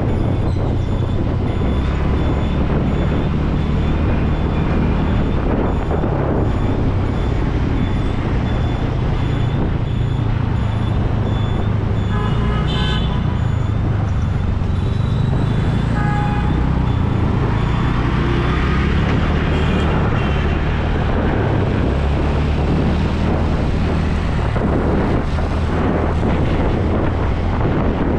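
Road traffic heard from a moving bike: a steady low rumble of engines with road and wind noise on the microphone. A vehicle horn toots briefly about twelve seconds in, and another short horn sounds a few seconds later.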